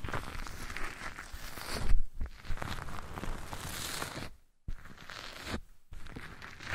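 Close-miked ASMR rustling and scratching right on the microphone, with scattered sharp clicks and a loud knock about two seconds in; it stops briefly twice near the end.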